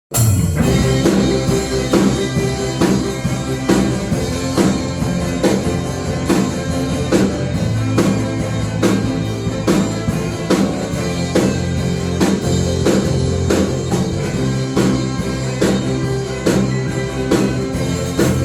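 Instrumental introduction of a worship song played by a band: drum kit keeping a steady beat under guitar and sustained chords.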